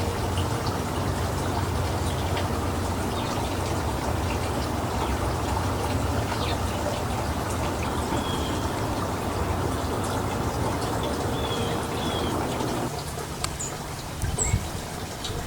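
A steady rushing noise that eases off about thirteen seconds in, with a few short, faint, high bird chirps over it, most of them in the second half.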